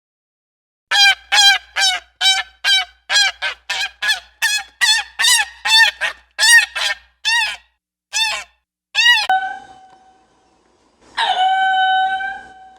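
An animal giving a rapid series of loud, goose-like honking calls, about twenty in eight seconds, followed near the end by one longer held call.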